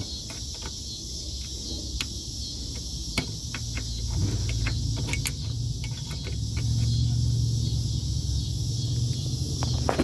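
Low steady rumble that grows louder about six seconds in, over a constant high chirring of crickets, with scattered light clicks and taps.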